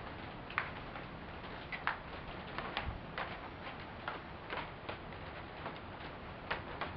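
Steady rain hiss with irregular sharp ticks, about one or two a second, of drops striking a hard surface close by.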